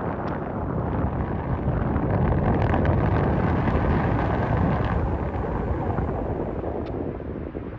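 Airflow buffeting the camera microphone in paraglider flight: a steady, low rumbling rush of wind.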